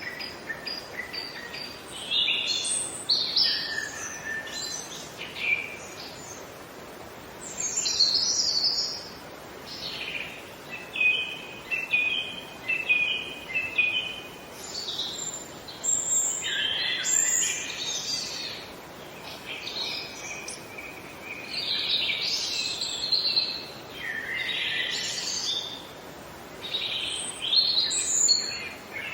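Several birds singing and calling at once, a steady run of chirps, short trills and rapid repeated notes, over a constant soft hiss of outdoor background noise.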